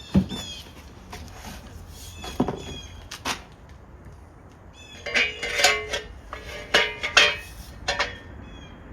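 Metal bike-rack parts knocking and clanking as they are handled, with a single sharp knock at the start and a busier run of ringing clanks in the second half. Birds chirp in the background.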